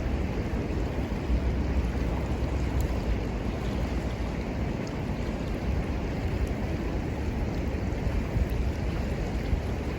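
Steady rushing of a river with wind rumbling on the microphone, and a few faint crackles from the small wood fire.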